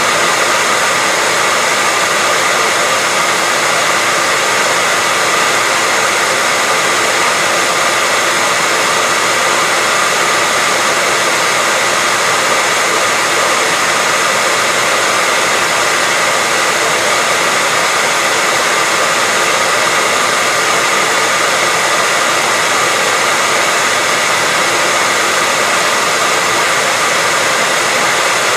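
Hair dryer running continuously at a steady level: an even airy hiss with a faint steady whine from its motor and fan.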